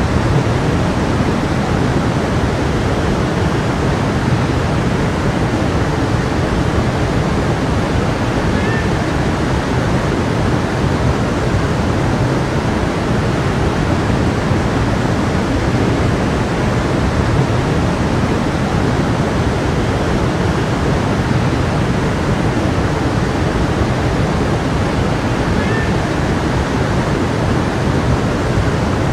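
Stream water rushing steadily, a constant even flow without breaks.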